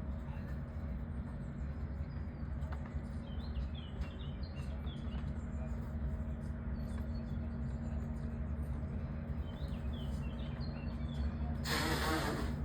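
Faint small-bird chirps over a steady low hum, with a short rush of noise about a second before the end.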